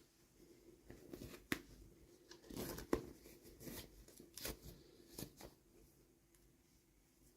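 Toy packaging being opened by hand: rustling and tearing, with several sharp clicks spread through, the loudest about three seconds in.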